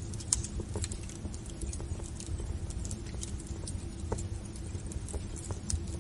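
Wood fire crackling in a fireplace: irregular sharp pops and snaps, one louder pop about a third of a second in, over a low steady hum.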